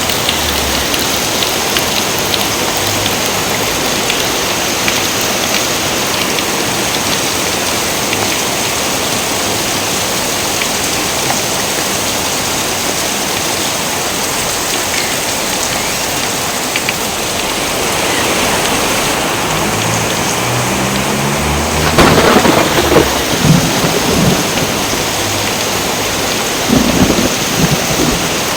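Steady heavy rain with thunder. About two-thirds of the way in, a low rumble builds into a sharp thunderclap, followed by crackling rolls, and another loud roll of thunder comes near the end.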